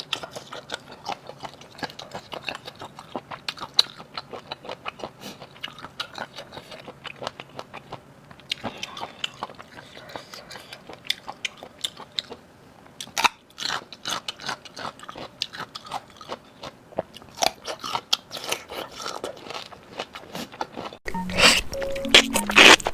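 Close-miked crunching and chewing of shell-on seafood: a dense run of sharp crunches and bites. About two seconds before the end, background music cuts in abruptly, louder than the eating.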